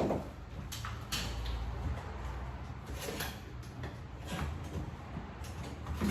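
Scattered knocks, clicks and scrapes of sheet-metal duct pipe and tools being handled and fitted, about one every second, over a low steady rumble.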